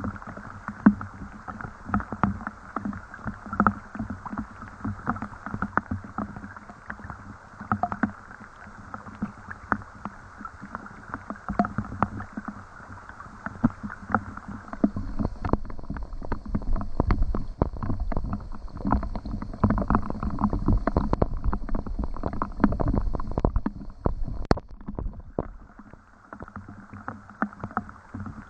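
Rain falling, heard as a dense run of separate drop taps and drips over a steady wash. A heavier low rumble builds about halfway through and drops away a few seconds before the end.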